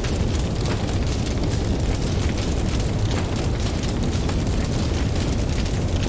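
Campfire crackling, with frequent small pops, over a steady low rumble of ocean waves.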